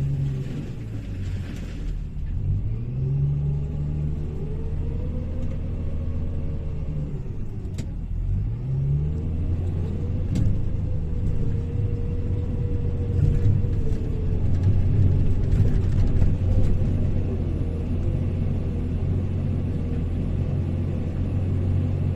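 Hyundai HL780-7A wheel loader's diesel engine running under load, revving up and easing off several times as the pitch rises and falls, then holding steady. Two faint sharp clicks come partway through.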